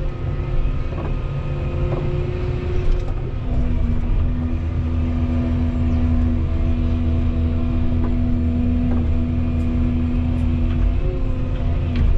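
Volvo 235EL excavator's diesel engine running steadily under hydraulic work. Its note breaks briefly twice, and a few sharp knocks sound from the work.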